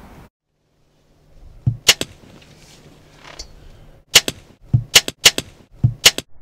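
Wild turkey gobbler striking a stuffed tom decoy, sharp slaps and thumps in quick pairs. One pair comes about two seconds in, then four pairs follow close together over the last two seconds.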